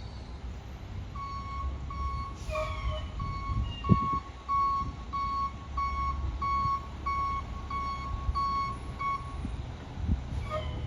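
Volvo Xpeditor rear-loader trash truck's backup alarm beeping at one steady pitch, about two beeps a second, while the truck reverses; the beeping stops near the end. The truck's engine rumbles underneath, and there is a single sharp knock about four seconds in.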